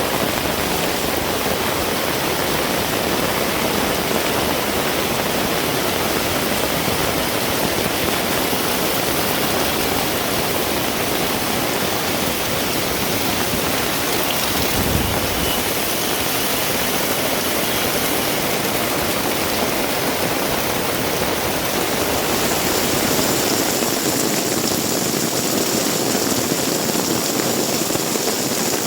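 Heavy rain pouring steadily in a dense, even hiss, with a brief low rumble about halfway through.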